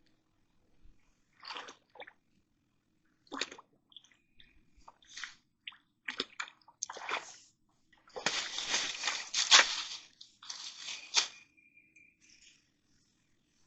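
Water sloshing and splashing in short, irregular bursts. There is a longer, louder stretch of splashing for about two seconds, starting about eight seconds in.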